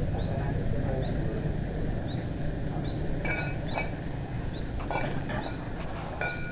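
Small birds chirping: a short high chirp repeated about three times a second, with a few louder calls a little past halfway, over a steady low rumble.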